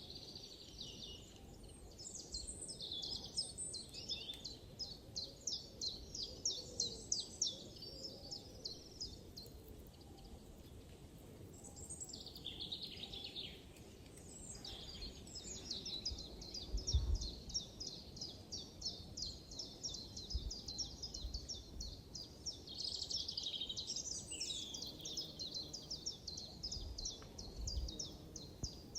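Forest birds singing: rapid runs of high chirps and fast trills, one long even trill through the second half, over a faint background hiss with a few brief low rumbles.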